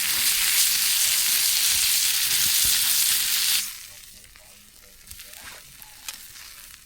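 Food frying in a pan over a campfire, a loud steady sizzle that cuts off abruptly about three and a half seconds in, leaving only faint scattered ticks and crackles.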